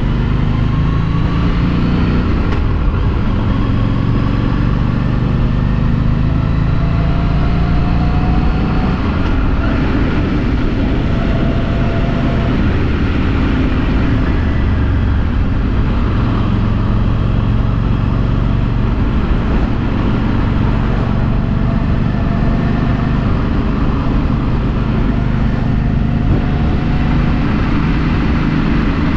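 A Harley-Davidson Street 500's liquid-cooled V-twin with its stock exhaust, running steadily while riding, with only gentle shifts in pitch. Wind and road noise come through on a helmet-mounted microphone.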